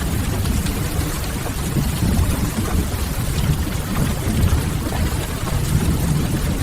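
Steady rain on a window, an even hiss with a deep rumble underneath.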